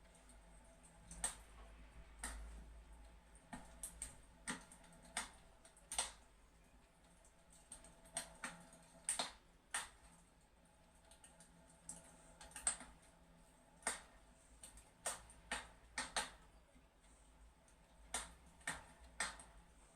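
Fireplace crackling: irregular sharp snaps and pops, roughly one a second, with no regular rhythm.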